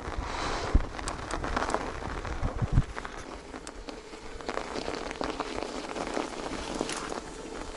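Irregular wet crackling and squelching of movement through slush and thawing mud, with two louder thumps about a second in and near three seconds.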